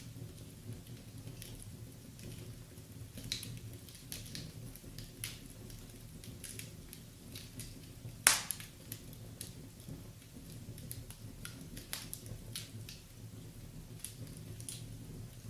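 Wood fire crackling in a fireplace: scattered sharp pops and snaps over a steady low rumble, with one loud crack about halfway through.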